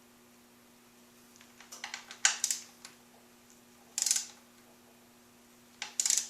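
Metal hand tools clicking and clinking in short bursts, about two, four and six seconds in.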